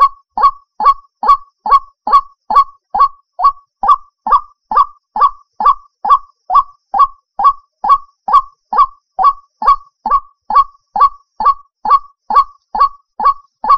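White-breasted waterhen (ruak-ruak) call played as a bird-trapping lure: a short, loud rising note repeated very evenly, a little over twice a second.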